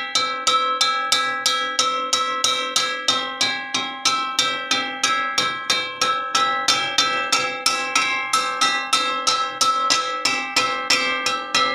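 Metal wok struck repeatedly, about three to four strikes a second, each hit ringing with a bell-like metallic tone.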